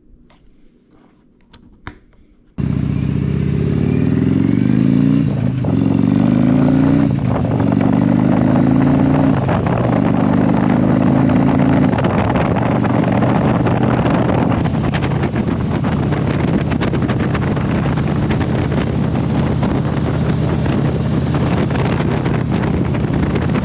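A 2014 Harley-Davidson Street Glide's V-twin heard through a helmet-mounted microphone, accelerating: its pitch climbs and drops at each of three upshifts. From about halfway in, a steady rush of wind noise covers the engine at speed.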